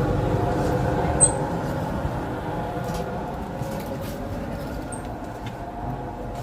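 Passenger train's diesel machinery humming steadily, slowly getting quieter. There is a short sharp click about a second in.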